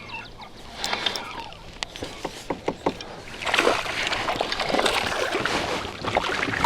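Water splashing and sloshing around a kayak, with a few sharp knocks in the first couple of seconds.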